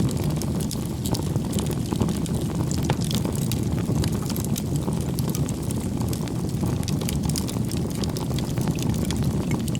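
Wood campfire burning: a steady low rumble of flames with many small sharp crackles and pops from the burning logs.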